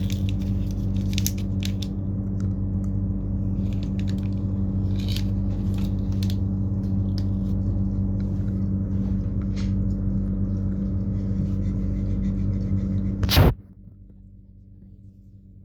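Steady low hum and rumble inside a train carriage, with scattered clicks and rustles in the first few seconds. About thirteen seconds in a loud crackle is heard, and the hum drops away suddenly after it.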